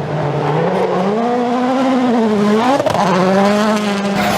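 Rally car engine at high revs, its pitch climbing and dropping with throttle and gear changes, with a sharp rise and a brief crack about three seconds in.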